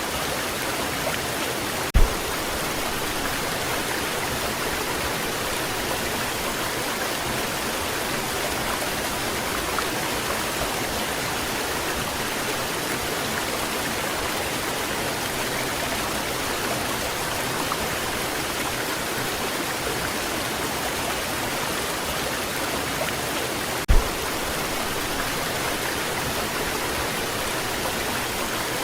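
Waterfall pouring in a steady, even rush of water. Two brief low thumps break through, about twenty seconds apart.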